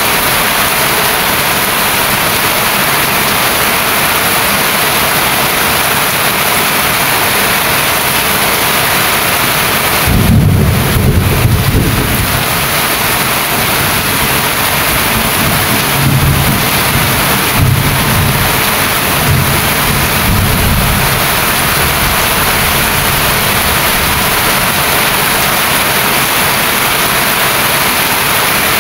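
Steady heavy rain, with a rumble of thunder about a third of the way in and further rolls of thunder a few seconds later.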